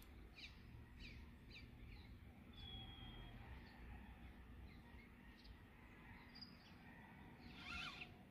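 Near silence with small birds chirping faintly: a scatter of short high chirps and one brief whistled note, over a faint low rumble.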